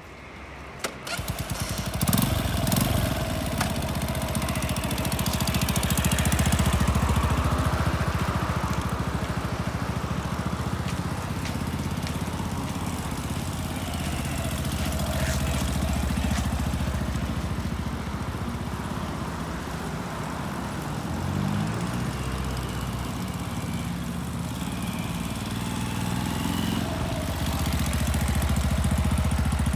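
Honda CB223S's 223 cc air-cooled single-cylinder four-stroke engine starting about a second in, then running at idle with a few gentle rises in revs.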